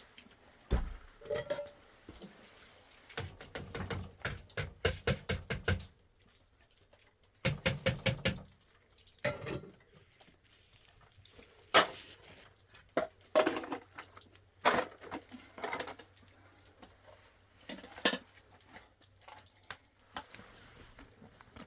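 A series of knocks and clatters, with two runs of quick, even taps a few seconds in and sharper single knocks later.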